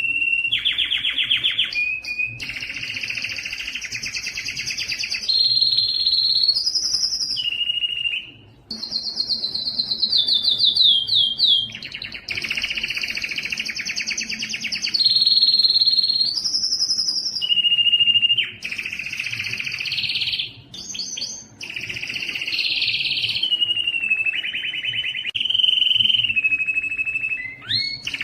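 Domestic canary singing a long continuous song of rapid trills and held whistled notes, switching to a new phrase every second or two, with a couple of brief pauses.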